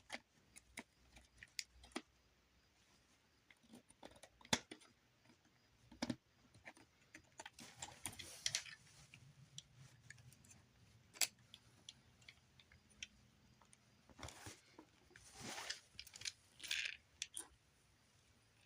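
Faint, scattered clicks and brief rustles of small plastic parts being handled and fitted: an arm upgrade kit being tried on a Transformers Optimus figure.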